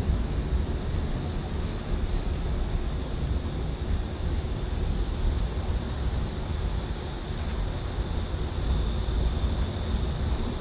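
Outdoor ambience: a steady low rumble, like wind on the microphone, with a high, rapidly pulsing chirp that repeats in short runs.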